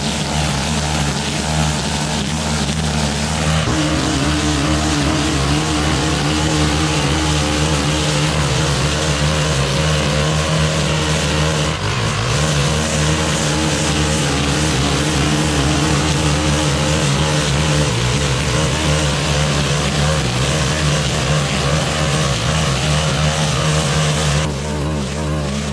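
Stihl FS 131 brushcutter's small 4-MIX engine running at steady high throttle while its cutting head mows thick canary grass, with a dense hiss of cut grass over the engine note. Near the end the hiss falls away while the engine keeps running.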